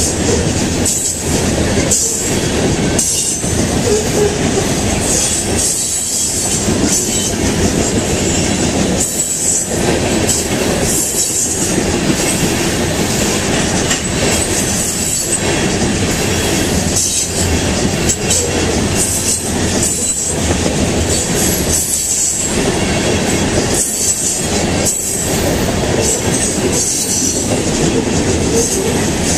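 Freight train of Norfolk Southern covered hopper cars rolling past close by: a loud, steady rumble and rattle of steel wheels on the rails, with a recurring clatter every second or two as the wheel sets pass.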